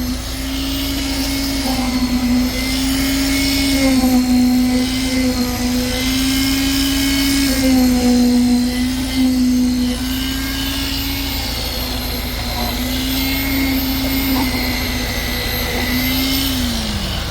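Engine of the concrete-pouring machinery running steadily at high revs with a strong whine, its pitch wavering a little, then dropping as it slows near the end.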